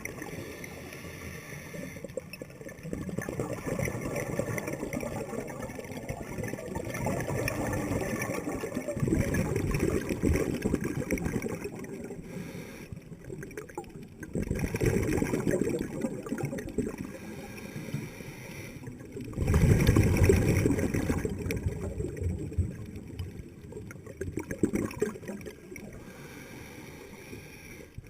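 Scuba diver's exhaled bubbles gurgling past the camera underwater, swelling in louder surges every few seconds between quieter stretches.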